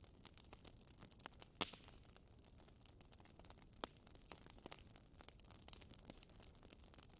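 Wood fire crackling quietly, a steady scatter of small ticks with a couple of sharper pops, one about a second and a half in and one near four seconds.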